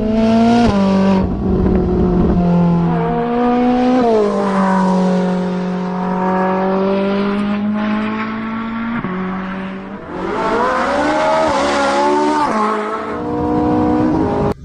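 Car engine revving, its pitch rising and falling in long sweeps, with high screeching bursts at the start and again about ten seconds in.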